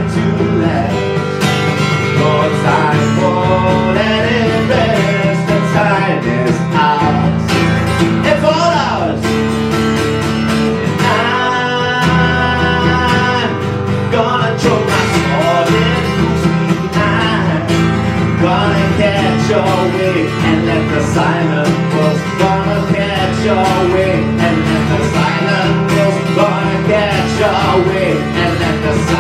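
Live guitar music: an instrumental passage of the song, with a lead line of bending notes over steady low chords.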